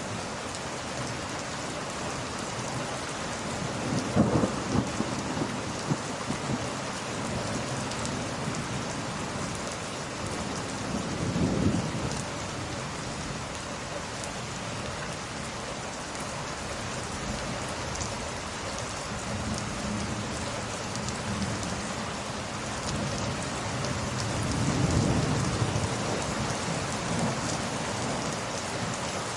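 Steady heavy rain with thunder rolling in three times: about four seconds in, again about twelve seconds in, and a longer rumble near the end.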